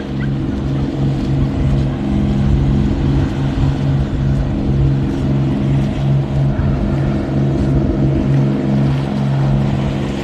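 Motorboat engine running steadily with a low, evenly pulsing throb.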